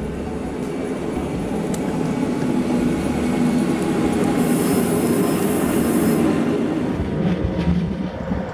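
Bernese Oberland Railway electric train running on its rails, the rumble of the wheels growing louder toward the middle. A high-pitched hiss or squeal from the wheels lasts about two seconds around the middle.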